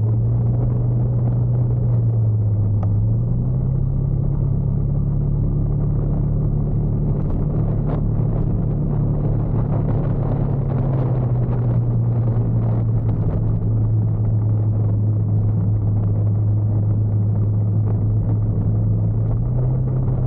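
Motorcycle engine running under way, with wind and road noise. The engine note steps up a few seconds in, drops back about halfway through, and rises again near the end as the throttle and speed change.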